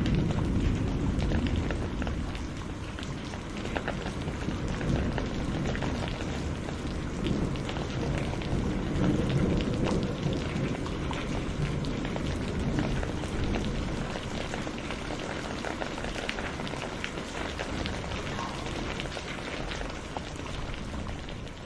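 Loud, steady rain falling, with a low rumble in the first couple of seconds that fades away.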